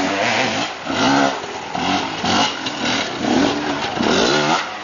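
Enduro motorcycle engine revving up and down over and over, its pitch rising and falling about once a second as the rider works the throttle along a tight, rough section of track.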